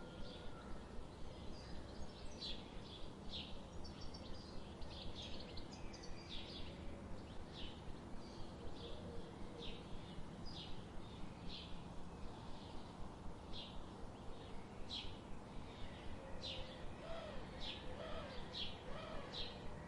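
Birds chirping over a steady background hiss: a continual run of short, high chirps, joined by a few lower whistled notes near the end.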